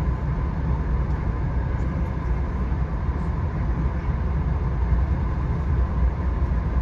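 Via Rail passenger train running along the track: a steady low rumble with no let-up.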